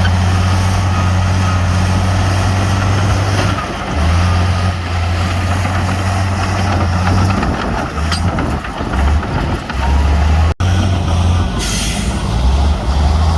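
Heavy diesel engine of earthmoving machinery running, a loud low drone that breaks off and comes back several times, with a short drop-out about ten and a half seconds in and a brief hiss near the end.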